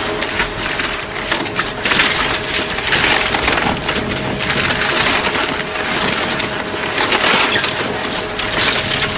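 Wood being crushed and splintered by a heavy machine: continuous cracking and snapping, with a faint steady machine hum underneath.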